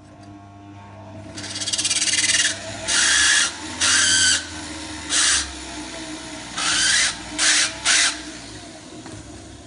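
Small power drill biting into a small metal part in seven short harsh bursts, a vile noise, the first swelling over about a second, with a faint motor whine between them.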